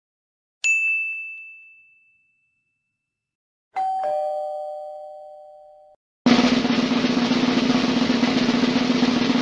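A string of sound effects: a single high bell-like ding that rings out and fades, then a lower two-note ding-dong chime that is cut off abruptly, then a steady drum roll.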